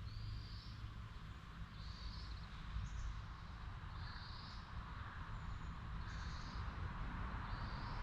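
A bird repeating a short high chirping call about once a second, over a steady low rumble of outdoor background noise.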